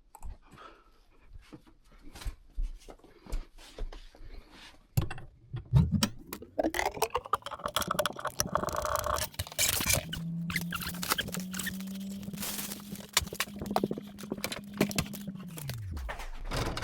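Scattered clicks and knocks of tools and parts being handled, then about five seconds in a small electric motor spins up, runs steadily for about nine seconds and spins down near the end.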